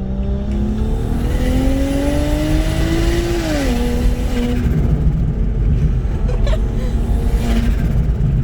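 BMW 335i's single-turbo N54 straight-six accelerating hard: the engine note rises for about three seconds, then drops at a gear change, over a heavy low rumble.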